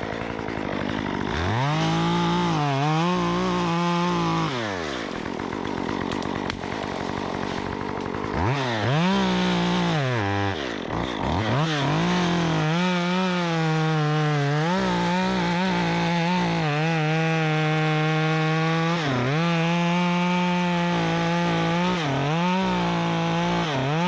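Stihl MS 194T top-handle two-stroke chainsaw, running a 1/4-inch-pitch chain, revving up from idle twice in short bursts, then held at high throttle for about twelve seconds with the pitch wavering slightly as it cuts through a tulip poplar branch, before dropping back at the end.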